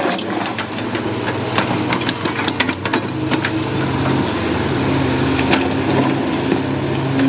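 Diesel engine of an excavator running steadily, with scattered metallic clanks and knocks; the engine note rises and strengthens about five seconds in.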